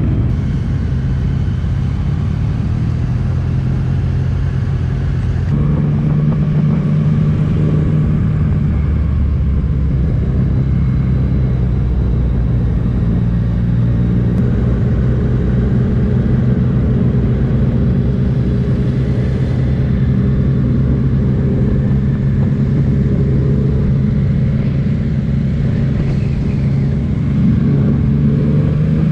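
Yamaha MT-09's three-cylinder engine running steadily at low road speed, heard from the rider's seat. The engine note shifts abruptly about five seconds in and climbs near the end as the bike accelerates.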